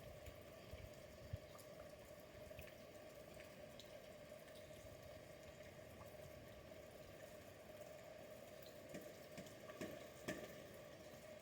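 Near silence: a faint steady hum with scattered soft ticks and a few small knocks.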